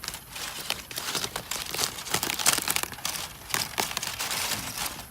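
Aluminium foil parcel being unwrapped by hand: a continuous run of crinkling and crackling, busiest in the middle.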